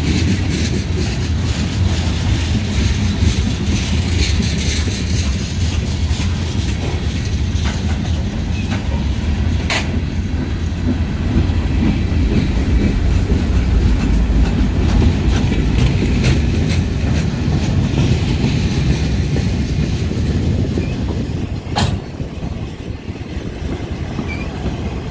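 Freight cars rolling past at close range: a steady heavy rumble with wheels clacking over rail joints, and two sharp clanks, about ten and twenty-two seconds in.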